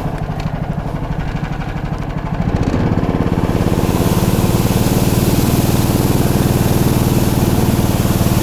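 Small engine of a motorized snow pusher (motorized dog) running at low speed, then throttled up about two and a half seconds in and held at a steady, louder run, with a rushing hiss joining a second later.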